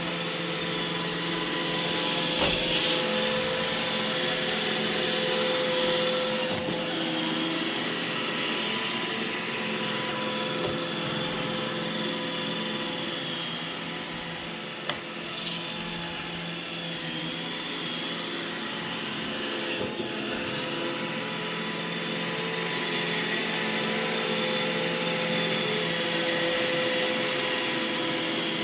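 iRobot Roomba E6 robot vacuum running steadily, its motors humming, with a few short knocks as it bumps into things.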